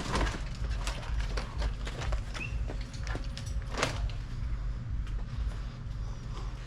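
Scattered knocks and clunks of drink bottles and cans being handled and loaded into a vending machine, the loudest about four seconds in, over a steady low hum.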